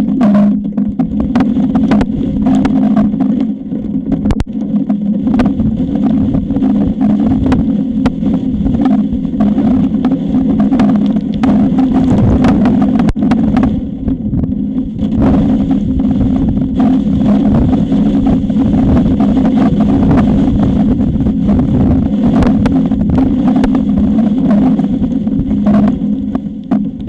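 Strong wind buffeting an outdoor nest camera's microphone: a loud, constant low rumble with frequent knocks and clicks, over a steady low hum.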